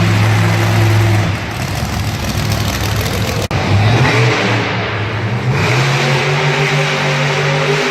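A vehicle engine running loud and revving, its pitch climbing between about four and six seconds in, with a brief break about three and a half seconds in.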